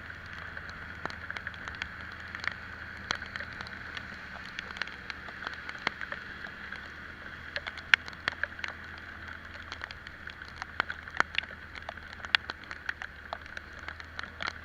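Raindrops striking in irregular sharp taps close to the microphone, over the steady low hum of an Italika Vitalia 125 cc scooter under way and a steady rush of wind and road noise.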